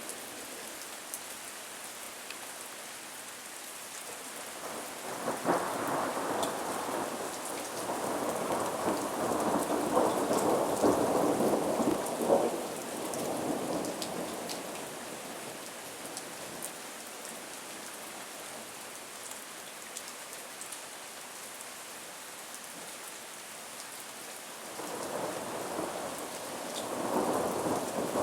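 Thunderstorm: steady rain hiss, with a long roll of thunder from about five to fourteen seconds in and another beginning near twenty-five seconds.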